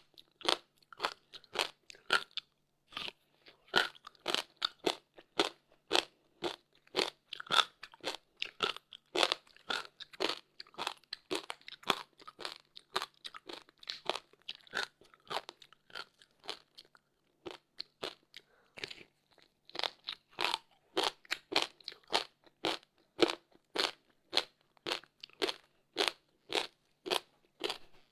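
Frozen passion fruit ice being bitten and chewed close to the microphone: a steady run of sharp crunches, several a second, thinning out briefly about two-thirds of the way through.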